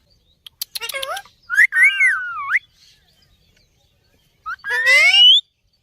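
Parrot calling: a few sharp clicks, then a wavering pitched call, and near the end a call that rises in pitch.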